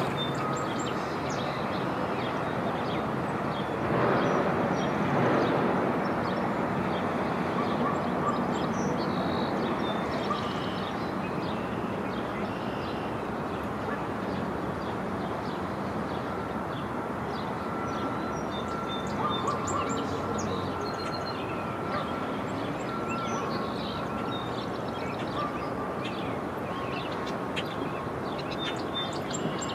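Many short bird chirps and calls scattered over a steady background noise, with a brief swell in the noise a few seconds in.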